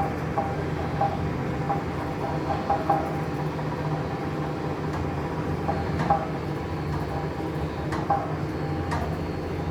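SVA-4 coating drum running on its electric motor and variator drive: a steady mechanical hum, with short higher-pitched notes about once a second and a few sharp clicks.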